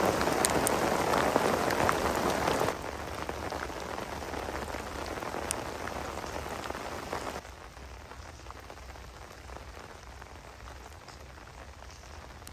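Heavy rain falling steadily, with individual drops ticking sharply. It drops in loudness in two steps, about a quarter of the way in and again just past the middle.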